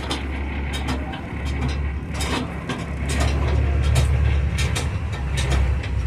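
Passenger boat's inboard engine running steadily with a low drone, with irregular clicks and knocks over it.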